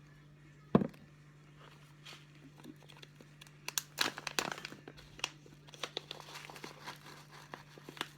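A single knock about a second in, then packaging crinkling and rustling in quick irregular crackles as it is handled and opened.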